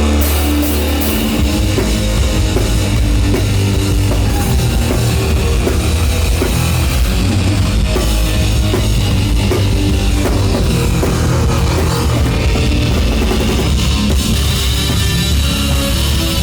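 Live heavy rock band playing: distorted electric guitar with a full drum kit that comes in about a second in, loud and steady.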